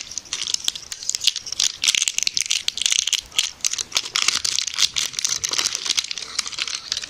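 Plastic safety seal on a Vaseline Repairing Jelly container crinkling and crackling with many quick clicks as it is picked at and pulled off by hand, to break the factory seal. The crackling stops suddenly at the end.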